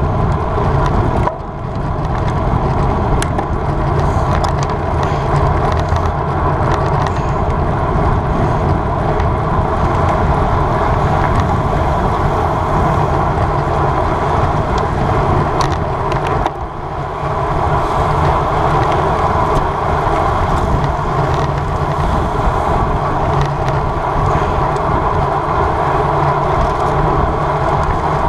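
Wind rushing over the microphone of a camera riding on a road bike at race speed, mixed with road noise; the rush drops off briefly twice, about a second in and about halfway through.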